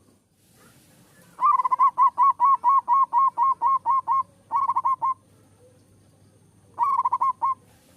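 Zebra dove (perkutut) cooing: a fast run of about a dozen short, clear notes, each rising then dropping in pitch. Two shorter runs follow, one around the middle and one near the end.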